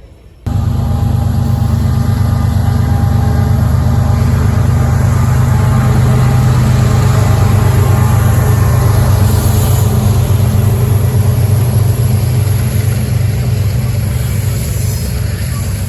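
Diesel locomotive engines running loudly at close range, a steady deep drone that starts abruptly about half a second in.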